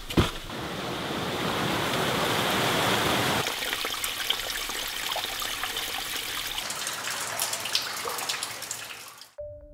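Rushing, splashing water with many scattered crackling clicks, fullest for the first few seconds and then thinner, cut off abruptly near the end.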